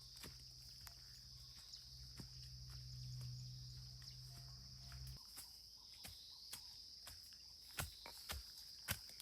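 A faint, steady high-pitched trilling of night insects such as crickets, with scattered sharp clicks and knocks that come more often near the end. A low hum underneath cuts off suddenly about five seconds in.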